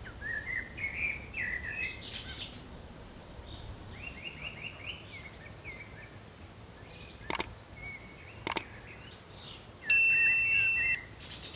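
Small forest birds chirping and singing in short phrases, including a quick run of repeated notes. Past the middle come two sharp clicks about a second apart, and near the end a loud, steady, high tone starts suddenly and lasts about a second.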